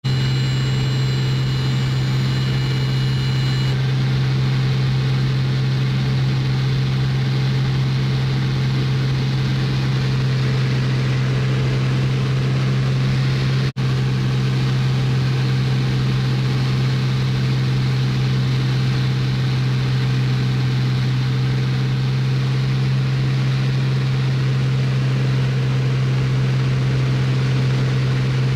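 Bellanca Super Viking's piston engine and propeller drone steadily as heard inside the cockpit, with a deep steady hum. The sound cuts out for an instant about 14 seconds in.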